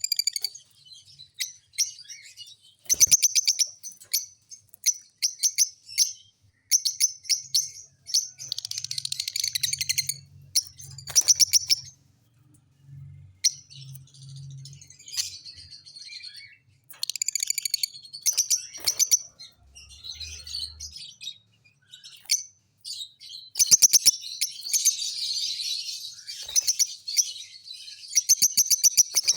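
Lovebirds chattering in bursts of rapid, high-pitched chirps and squeaky trills, with a couple of brief pauses.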